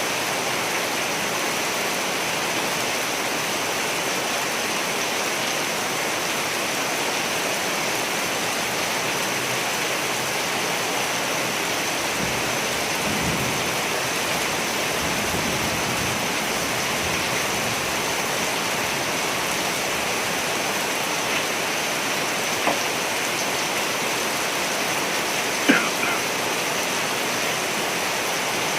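Steady rain falling, a dense even hiss. A low rumble of distant thunder comes through around the middle, and two sharp clicks sound near the end, the second the loudest.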